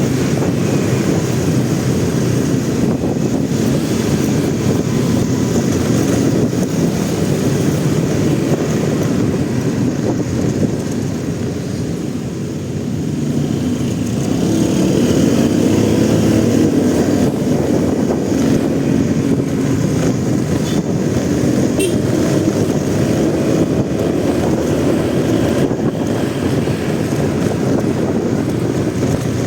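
Motorcycle engine running during a ride through city traffic, under a steady low rumble. Its note drops slightly, then rises and grows louder as it accelerates about halfway through.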